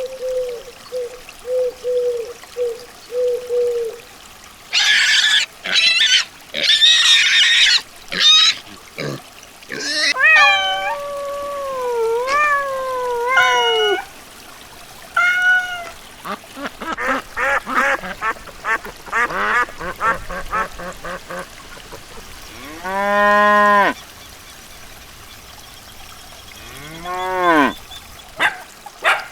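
A run of different animal calls, one after another. It starts with a quick series of short low calls, then come louder, harsher calls, gliding pitched calls and a fast pulsing series, and it ends with two long calls that rise and fall in pitch.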